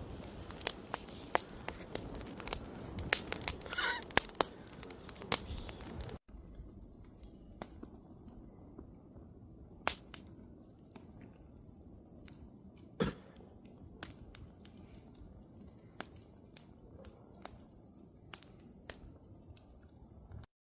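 Wood fire crackling and popping, busy and louder for about six seconds, then suddenly quieter and sparser, with a couple of sharper pops.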